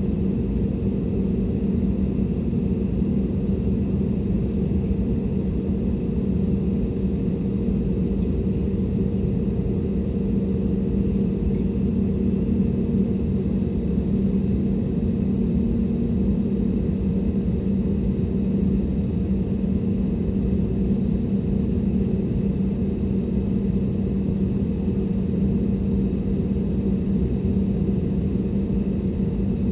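Steady cabin drone inside an Airbus A320neo in flight: engine and airflow noise with a constant low hum and no change in pitch or level.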